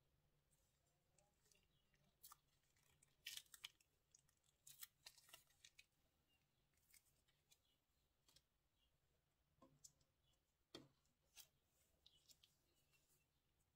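Very faint, irregular clicks and crinkles from handling slime-making materials: plastic bags and clay, with about a dozen short, sharp ticks spread unevenly over near silence.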